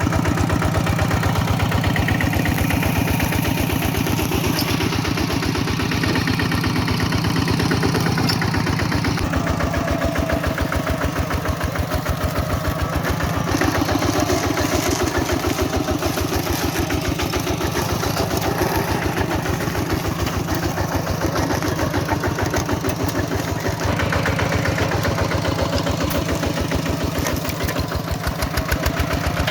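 Tractor's diesel engine running steadily with an even pulsing beat.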